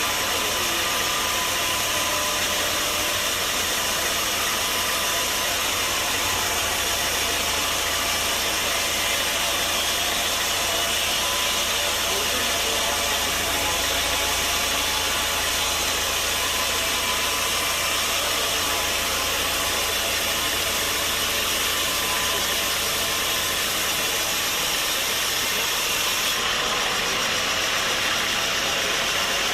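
Sawmill machinery running steadily: a dense, even mechanical noise with a low engine-like hum underneath. The highest hiss drops away about three seconds before the end.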